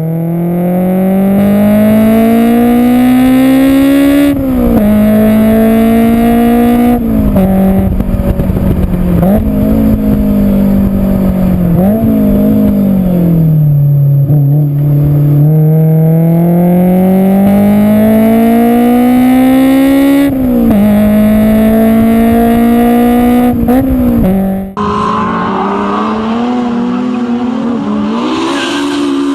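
Four-cylinder race car engine at high revs, its note climbing through the gears with a sharp drop at each upshift, easing off and pulling up again midway. A hard cut near the end switches to another stretch of engine noise with a rougher, noisier sound.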